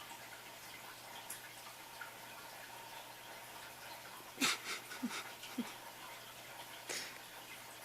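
Mostly quiet room tone, broken about halfway through by three short, faint animal squeaks in quick succession, with a brief noise near the end.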